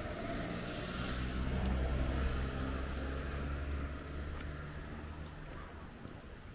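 A motor vehicle's engine running close by with a low, steady hum, loudest about two seconds in and fading away near the end.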